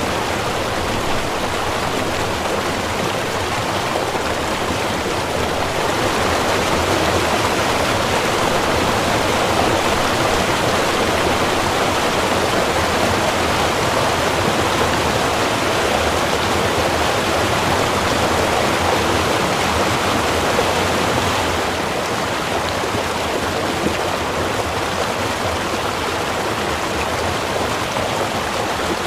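Small river or stream flowing over rocks: steady rushing and gurgling water, a little fuller through the middle.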